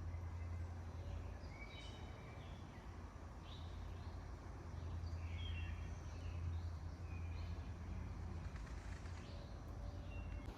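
Wild birds chirping, a series of short calls scattered throughout, over a steady low rumble.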